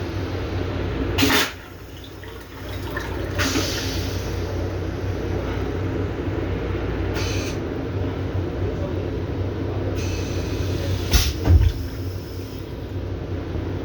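Toilet in a Metro-North M7 railcar restroom flushing, a steady rush of water over the low rumble of the moving train. A sharp click about a second in, and a couple of heavy thumps near the end.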